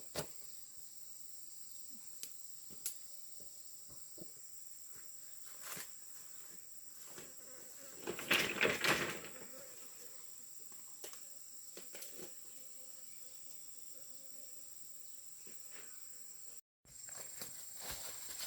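Steady high-pitched insect drone, typical of crickets, with scattered light clicks and knocks, and a short louder rustling or handling noise about eight seconds in.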